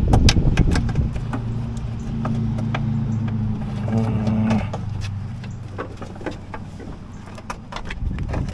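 A motor runs with a steady hum that fades away over the second half, under scattered clicks and knocks.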